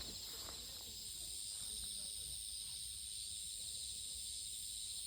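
Steady, high-pitched chorus of summer insects.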